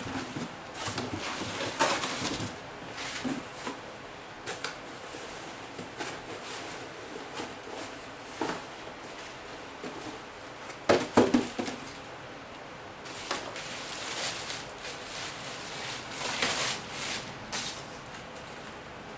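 A cardboard parts box being opened and a new brake caliper and its packaging handled: irregular scraping and rustling, with a louder clatter of knocks about eleven seconds in.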